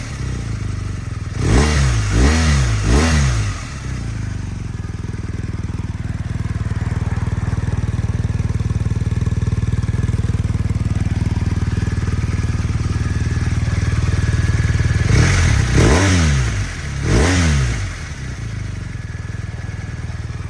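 BMW R 1250 R's boxer-twin engine through an SC Project SC1-R carbon silencer, blipped three times in quick succession in the first few seconds, then idling steadily, then blipped twice more before settling back to idle.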